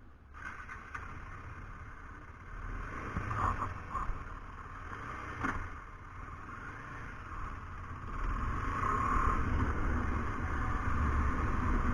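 KTM 390 Adventure motorcycle being ridden, its single-cylinder engine running under a haze of wind and road noise, with a few clicks. It grows louder after about eight seconds.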